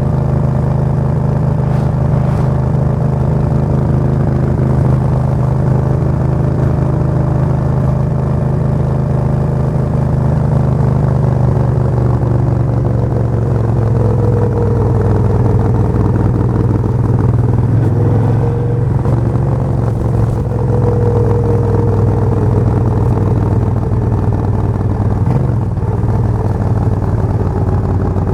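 Suzuki VS1400 Intruder's V-twin engine running steadily, its note shifting slightly about halfway through.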